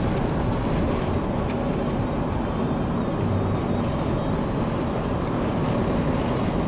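Steady road and engine noise inside a moving car, a constant low rumble.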